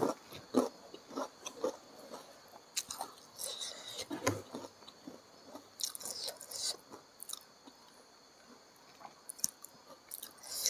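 Close-miked chewing and wet mouth sounds of someone eating rice with chicken gizzard and liver by hand, in scattered short clicks and smacks, with soft rustles of fingers picking food from a banana leaf.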